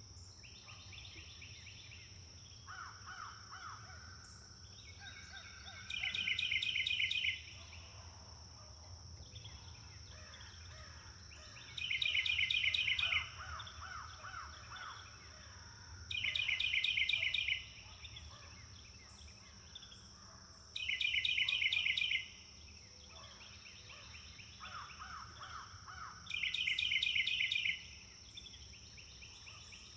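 Forest birds calling: a loud, rapid rattling call of about a second and a half comes five times, every four to six seconds, with softer, lower songs in between. A steady high-pitched hum runs underneath.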